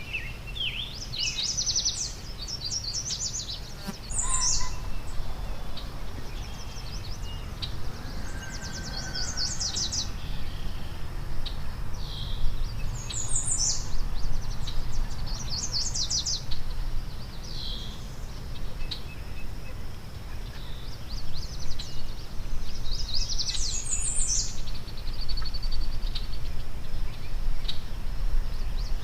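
Songbirds singing in short phrases of rapid, high notes, repeated every few seconds over a steady low background rumble.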